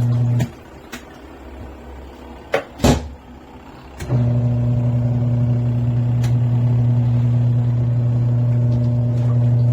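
Portable twin-tub washing machine's motor running with a steady hum. It cuts out about half a second in, and a couple of sharp knocks follow near the three-second mark. About four seconds in the motor starts up again and keeps running.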